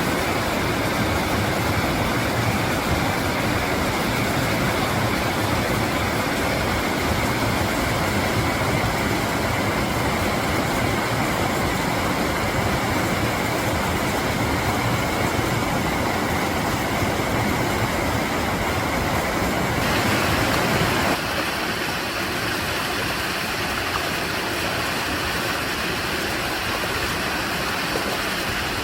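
Mountain stream water rushing over rocks, a steady full wash of sound. A little over twenty seconds in it changes abruptly to a lighter, thinner rush with less deep rumble.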